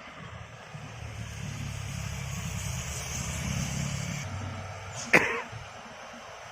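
A heavy vehicle's diesel engine labouring up a climb, growing louder for a few seconds and then easing off. About five seconds in comes one sudden, sharp burst, the loudest sound here, falling quickly in pitch.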